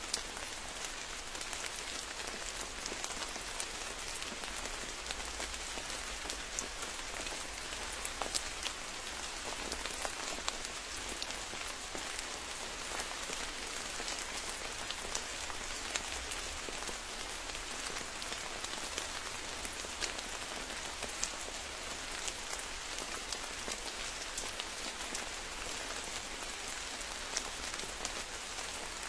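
Steady rain falling, with many individual drop hits ticking out sharply over the even hiss.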